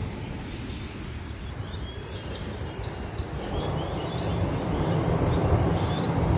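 Small birds chirping in quick, repeated high notes over a low rumble. The rumble eases at the start and builds again toward the end.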